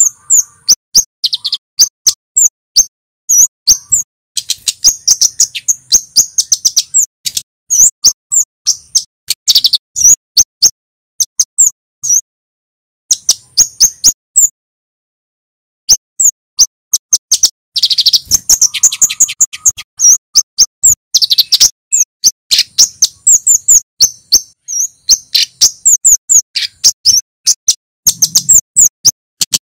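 Male kemade (Javan flowerpecker) calling in quick series of sharp, high-pitched 'cit' chirps. The calling pauses briefly twice a little under halfway through, then carries on as densely as before.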